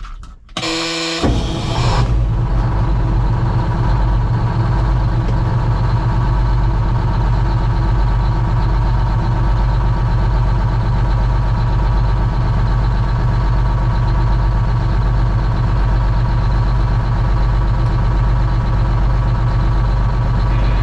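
Detroit Diesel two-stroke engine of a 1961 GMC Crackerbox semi truck cranking briefly on the starter, catching within about a second and then idling steadily: its first start after winter storage.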